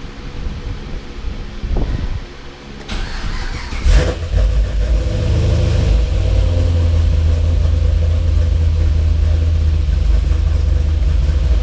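Cammed LS3 V8 in a fifth-generation Chevrolet Camaro SS starting up: it fires with a sharp burst about four seconds in, then settles into a steady idle.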